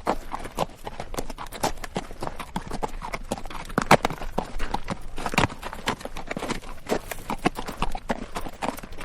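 A ridden horse's hooves clopping on rocky dirt at a walk, with a steady run of knocks and the rattle of the bridle and tack; one hoof strike just before four seconds in is the loudest.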